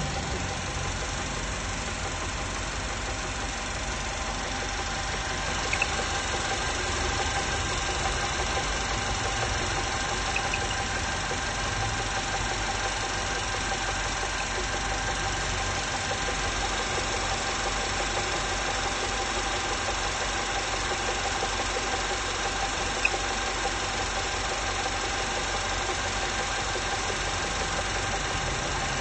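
Volkswagen 1.8 TSI turbocharged four-cylinder petrol engine idling steadily with an abnormal knock in its running. The uploader labels it piston knock but notes that only a teardown can pin down the exact cause.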